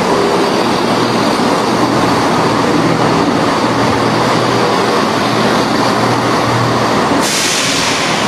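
A pair of class 170 Turbostar diesel multiple units standing at the platform with their engines running: a steady low hum under a dense din. About seven seconds in, a hiss of air starts.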